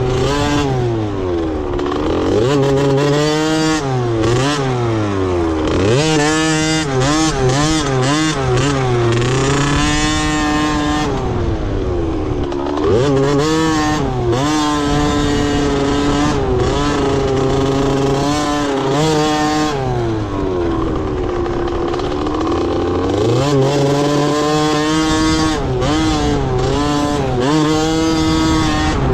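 Several motocross bike engines revving up and falling back as the riders race the track, their pitches rising and dropping every second or two and overlapping.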